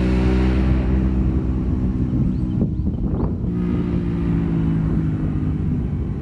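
Yamaha FZ-07 (MT-07) parallel-twin through an MGP Hotbodies exhaust, running at a steady note after a fly-by pass. The note weakens about two seconds in and comes back about a second later, with wind across the microphone.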